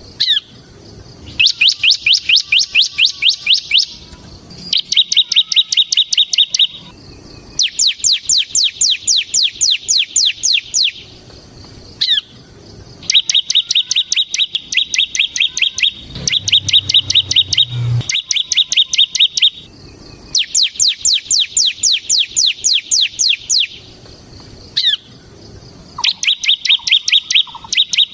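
Bar-winged prinia (ciblek) singing its rapid 'ngebren' song: phrases of two to three seconds separated by short pauses, alternating fast series of sweeping notes with buzzy, drill-like trilled runs.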